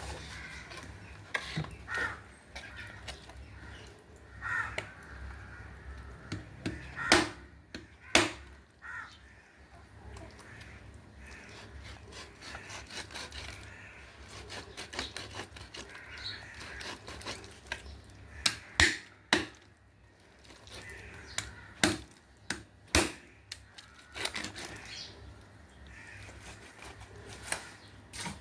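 Crows cawing now and then, with a run of sharp knocks and cracks on wood; the loudest knocks come in pairs about a second apart, several times.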